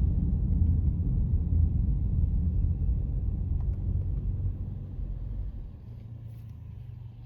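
Low road and tyre rumble of a car heard from inside the cabin. It fades away over the last few seconds as the car slows to a stop at a red light.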